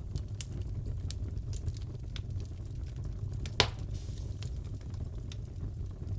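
Crackling fireplace: a steady low rumble of burning logs with scattered small crackles and one louder pop a little past halfway.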